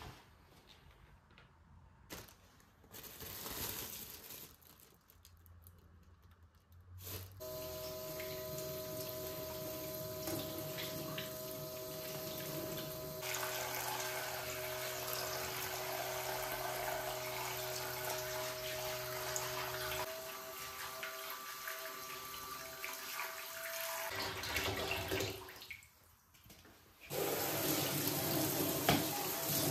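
Tap water running into a sink, starting about seven seconds in, cutting off briefly near the end, then running again.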